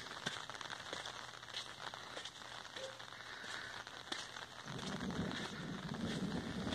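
Rain pattering on an umbrella, with many small drop ticks. About two-thirds of the way in, a low rumble of thunder builds up beneath it.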